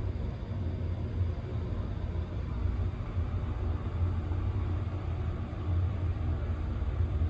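Hitachi Build Ace Quality 80 passenger elevator running between floors: a steady low hum and rumble.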